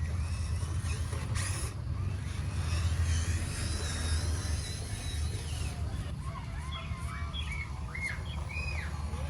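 Birds chirping, with short quick calls coming thick in the second half and a long held whistle a few seconds in, over a steady low rumble.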